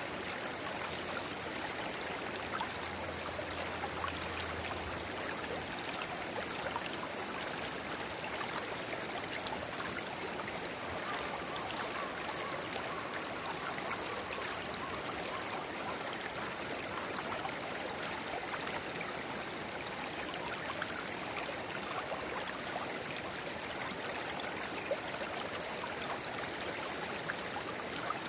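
Shallow river babbling steadily, with a narrow spring-fed stream pouring into the main flow.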